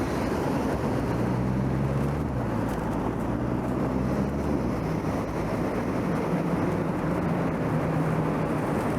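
Road traffic heard from a bicycle: cars running close by with a steady low engine hum over road and tyre noise, with some wind on the microphone.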